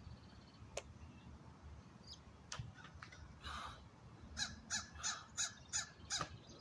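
A bird gives a quick series of about six harsh calls, about three a second, over two seconds in the second half.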